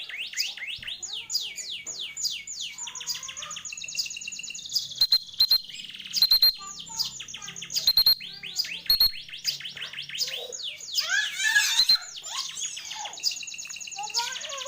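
Canary song: fast rolling trills and changing phrases of rapidly repeated chirps, the kind of recording used to master a young songbird. A few sharp clicks come in the middle.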